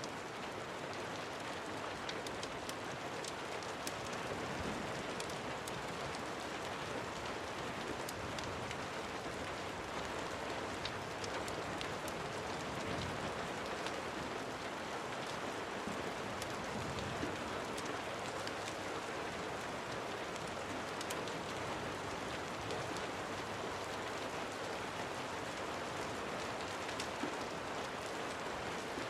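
Steady rain falling, an even hiss dotted with scattered sharp ticks.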